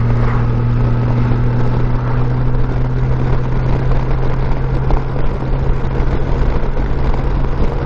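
A 2015 Honda Gold Wing F6B's flat-six engine running at a steady cruise with a constant low hum, under an even rush of wind and road noise.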